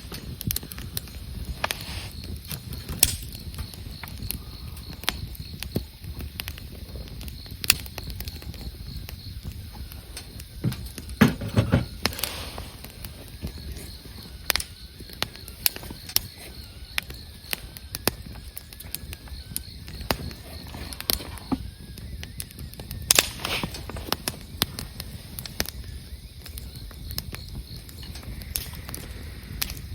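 Wood campfire crackling, with irregular sharp pops and snaps over a low steady noise, and a brief louder cluster of knocks about eleven seconds in.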